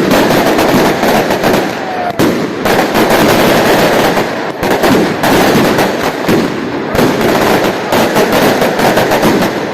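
Fireworks crackling in a dense, rapid string of pops, with brief lulls about two and four and a half seconds in.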